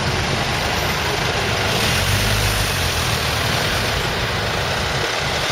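Steady city street traffic noise, with a low engine rumble that swells briefly about two seconds in.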